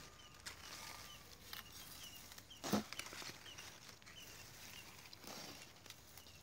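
A bird chirping in short high notes, about two a second, over a faint outdoor background. A single close thump comes nearly three seconds in, with light rustling around it.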